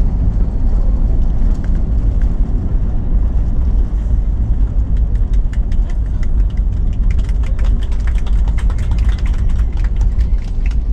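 Airliner landing: a steady, deep rumble, joined about halfway through by a quick, irregular run of rattles and clicks that lasts until near the end.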